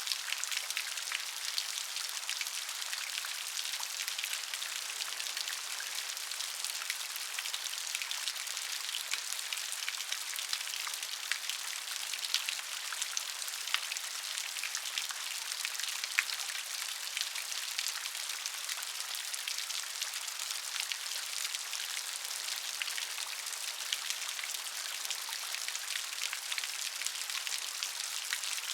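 Steady rain: an even hiss with many individual drops ticking through it and no thunder.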